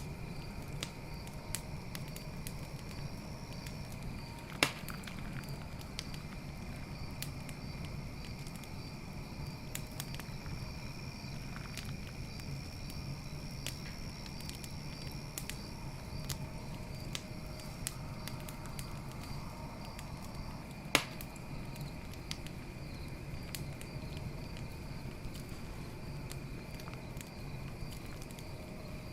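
Wood campfire crackling steadily with frequent small snaps and two much louder pops, the first about four and a half seconds in and the second about twenty-one seconds in. Crickets chirp steadily throughout in high, pulsing trills.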